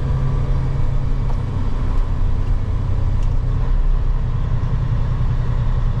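Semi truck's diesel engine running steadily with road noise, heard from inside the cab while pulling a tanker loaded to 80,000 lb.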